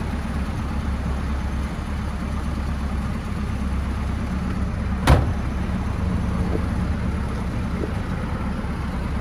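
The 1964½ Ford Mustang's 260 cubic-inch small-block V8 idling steadily, with a single sharp knock about five seconds in.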